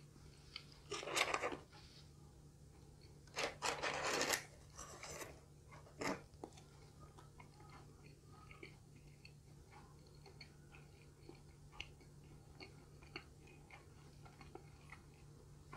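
A person chewing crispy fried chicken bites: a few loud crunches in the first six seconds, then quieter chewing with small mouth clicks.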